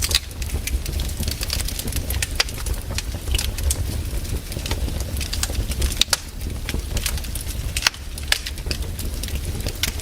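Fireplace fire crackling, with sharp pops coming at irregular moments over a steady low rumble; the loudest pops fall near the start, about two and a half seconds in, around six seconds and just before eight seconds.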